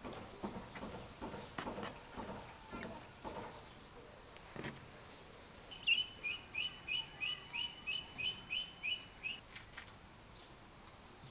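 A small songbird calling a fast series of about a dozen short, high chirps, about three a second, lasting three to four seconds. Before it come scattered light knocks and clatter, with a steady high hiss underneath.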